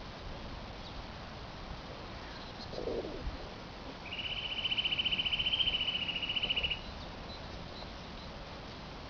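A small songbird singing one rapid, even trill at a steady pitch for about two and a half seconds, preceded by a brief lower sound.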